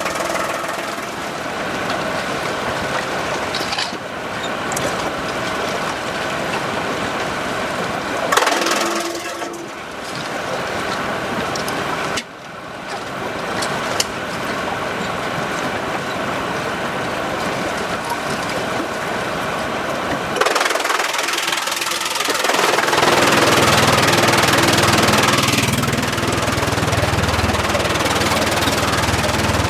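Sawmill machinery and engines running, a loud steady mechanical din that changes character abruptly several times.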